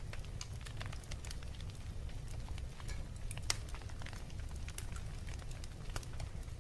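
Wood fire in a fireplace crackling: irregular small pops and snaps, one sharper pop about halfway through, over a steady low rumble.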